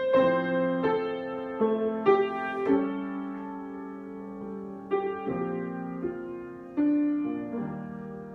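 Solo piano improvisation: slow single notes and chords struck one after another, each left to ring and fade, with a longer held chord in the middle.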